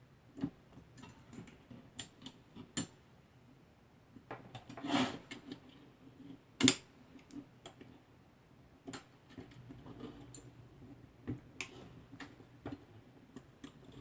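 Irregular small plastic clicks and taps from handling Cat6 cable conductors and seating them into a patch panel's terminal slots, with a brief rustle about five seconds in and the sharpest click a little later.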